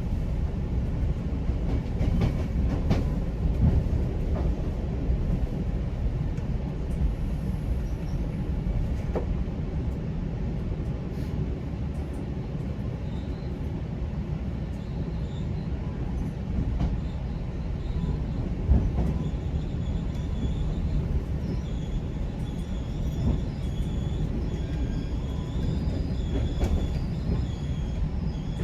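GO Transit commuter train running on the rails: a steady low rumble with scattered clicks of the wheels over the track and a sharp knock a little over halfway through. In the second half, high wheel squeal comes and goes.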